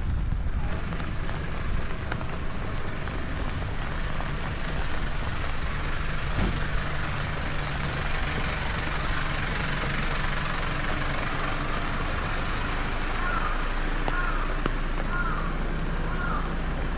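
Rainy city street traffic: a large vehicle's engine idling with a steady low hum over the even wash of rain, with a few short chirping tones near the end.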